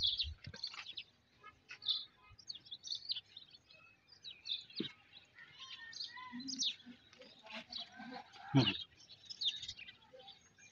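Birds chirping and calling, many short scattered chirps, with one brief louder sound a little past two-thirds of the way through.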